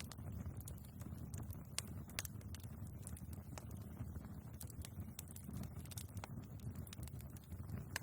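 Wood fire burning in a fireplace: a low steady rumble of flames with irregular crackles and pops from the logs, a few sharper pops standing out.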